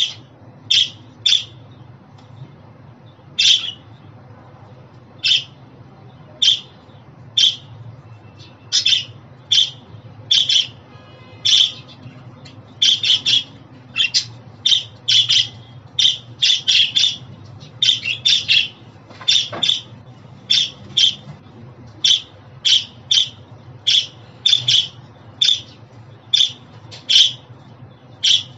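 Budgerigars giving short, sharp contact calls and squawks, often in quick pairs or triplets, several a second, over a low steady hum.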